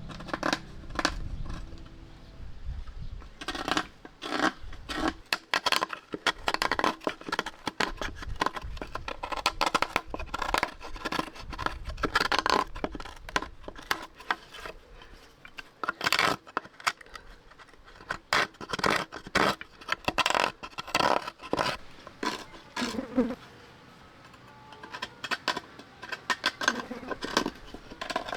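Dense, irregular clicking, tapping and scraping of small hard objects, thinning out for a few seconds late on before starting again.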